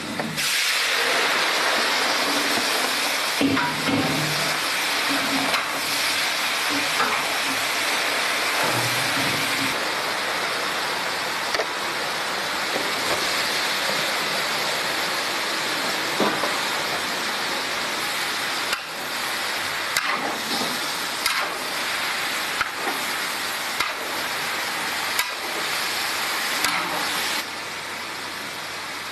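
Steady loud hiss of a large canteen wok stove as a pot of big plate chicken cooks over the fire, with a few light knocks of utensils; the hiss drops in level near the end.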